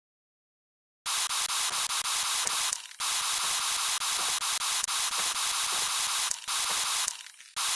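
An abrasive power tool sanding metal, a loud rough hiss that starts about a second in, breaks off briefly near 3 s and stops about 7 s in before starting again near the end.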